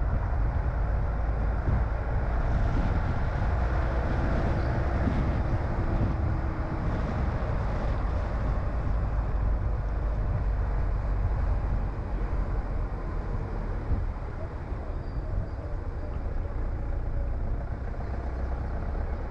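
Car driving along a road: a steady low rumble of engine and tyre noise, heard from inside the car, easing off a little past the middle.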